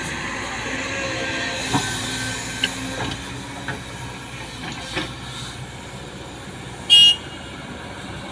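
Excavator running steadily with a few scattered, irregular knocks, not a continuous breaker hammering rhythm. About seven seconds in, a brief, loud high-pitched squeal or tone.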